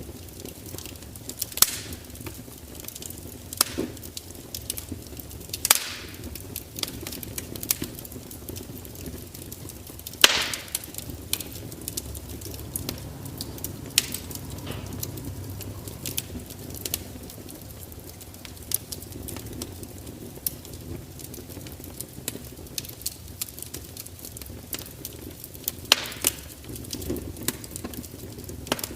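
Wood fire crackling: irregular sharp pops and snaps, a few of them much louder, over a low steady rumble.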